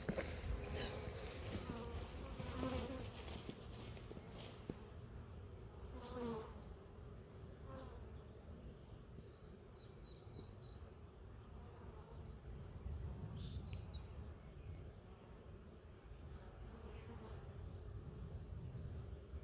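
Honey bees buzzing around an open hive, a steady hum, with a few short high chirps about halfway through.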